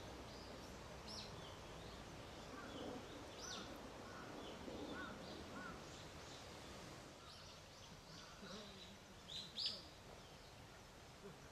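Wild birds chirping and calling in short, high notes over a steady outdoor background hiss. A louder double chirp comes near the end.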